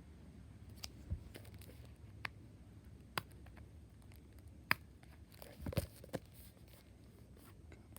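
Packaging being handled during an unboxing: scattered sharp taps and clicks, with a short cluster of rustling and crinkling about six seconds in.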